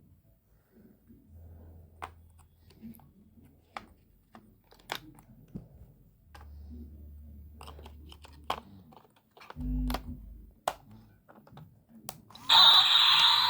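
Small plastic clicks and rattles of a toy remote-control car being handled while batteries are fitted into it. About a second before the end, a loud harsh electronic noise starts abruptly.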